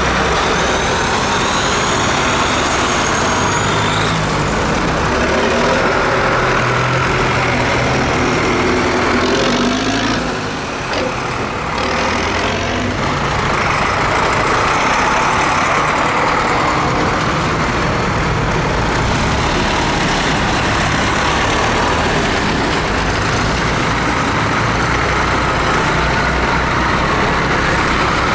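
Tractor engines running steadily, with a brief drop in loudness about ten seconds in.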